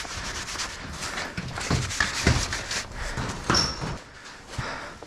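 A run of irregular knocks and thuds, with a brief high squeak about three and a half seconds in.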